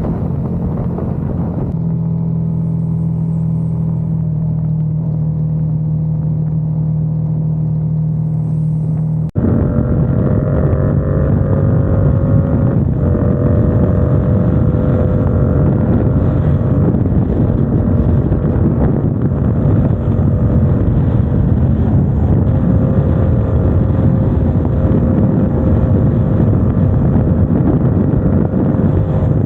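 Motorcycle engine running steadily under way. About nine seconds in there is a brief dropout, after which the engine and road sound is louder and fuller, its note wavering slightly with the throttle.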